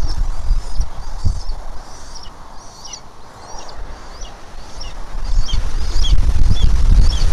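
Small birds chirping over and over, short high notes about twice a second, over a low rumbling noise on the nest-camera microphone that dies down in the middle and swells again near the end.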